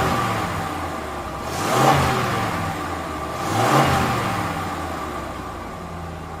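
Vehicle engine running, rising to a loud surge three times about two seconds apart, then settling into a steady, slowly fading drone.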